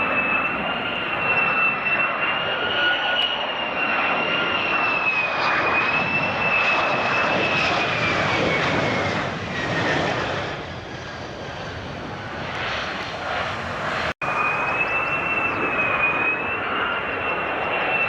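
Fighter jet engine noise, a loud rushing with a high whine that wavers slightly in pitch. The whine fades for a few seconds in the middle, and there is a sudden brief dropout about two-thirds of the way in, after which it returns.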